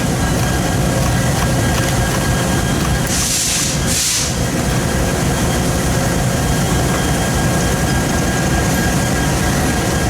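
A freight train running past with a loud, steady rumble, broken by two short bursts of hiss about three and four seconds in.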